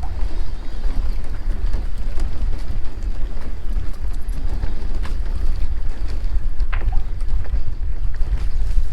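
Strong wind buffeting the microphone, a heavy fluttering rumble, with a couple of faint knocks about five and seven seconds in.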